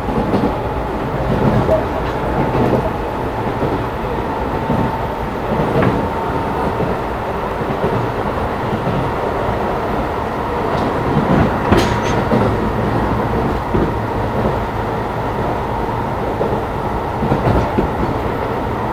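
Keisei 3500 series electric train running at speed, recorded inside motor car MoHa 3514. Its running noise goes on steadily, with a thin steady whine and a few wheel clacks over rail joints.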